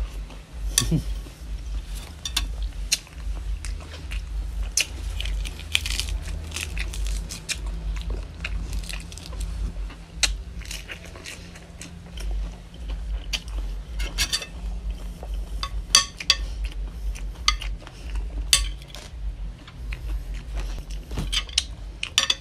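Close-up eating sounds: wet chewing and crunching of pickled chicken feet and salad, with sharp clicks, and a metal spoon scraping and clinking on a glass plate near the end, over a steady low rumble.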